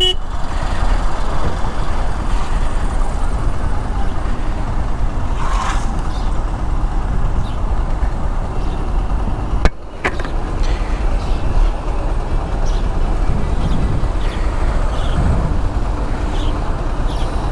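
Bajaj Pulsar NS160 motorcycle riding through slow, jammed highway traffic: steady single-cylinder engine and road noise with other vehicles around. A sharp click about ten seconds in.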